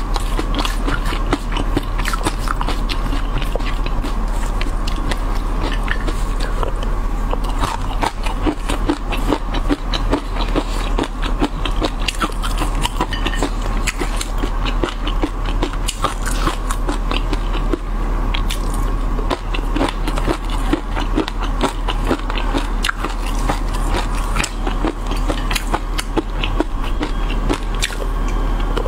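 Close-miked chewing and biting of chili-oil-coated shrimp, a dense run of small wet crunches and crackles, with a silicone spatula-spoon now and then scraping across a ceramic plate. A steady low hum runs underneath.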